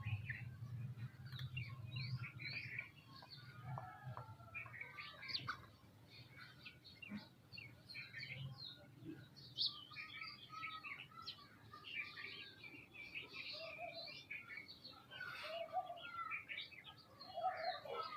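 A flock of small birds chirping and calling all at once: dense overlapping short chirps and whistles, with a low hum underneath for the first few seconds.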